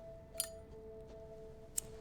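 Soft background score holding steady sustained notes, with two small sharp clicks, the first about half a second in with a brief clink-like ring, the second near the end.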